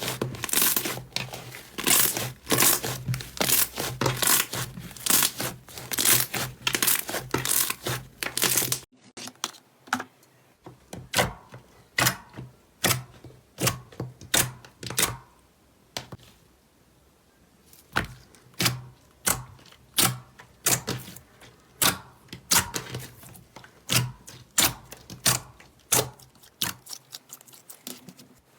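Slime being squeezed and pressed by hand, giving loud, close-up crackles and pops as air pockets burst. The crackling is dense at first, then changes abruptly about nine seconds in to a slower run of separate pops, about one or two a second.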